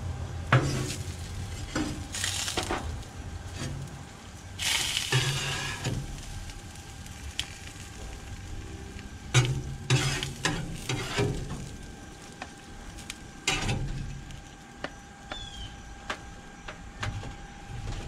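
Jalapeños and mushrooms sizzling on a Blackstone steel griddle, with a metal spatula scraping across the griddle top several times as the mushrooms are lifted off.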